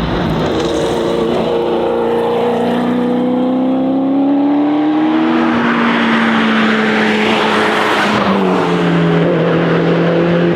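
1988 Giocattolo Group B's Holden V8 engine heard from inside the car at speed on a rally stage, pulling with its pitch rising for about five seconds, then dropping in two steps. Road and wind noise run underneath.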